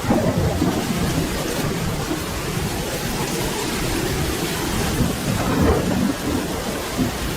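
Steady rain falling, with a low rolling rumble of thunder underneath that swells and fades unevenly.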